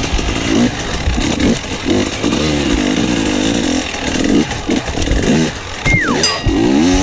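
Enduro motorcycle engine revving up and down repeatedly as the bike is ridden over rough dirt and obstacles.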